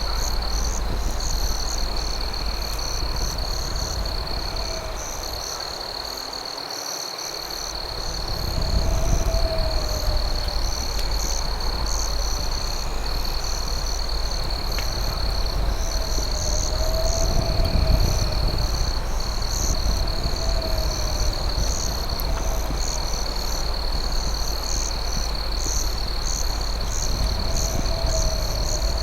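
Night insect chorus: crickets keep up a steady high trill with brief breaks, over a faster pulsing chirp, while a lower warbling call repeats every few seconds. A steady low rumble runs underneath and briefly fades about six seconds in.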